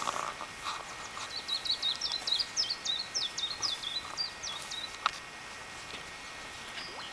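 A songbird singing a quick run of short, high notes for about four seconds over faint outdoor background hiss, with a single sharp click about five seconds in.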